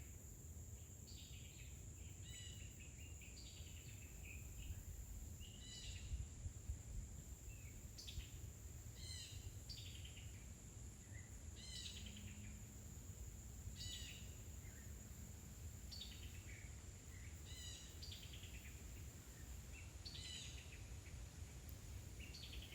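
Small songbirds calling: short chirps that sweep downward in pitch, one every second or so, faint over a steady high whine and a low rumble.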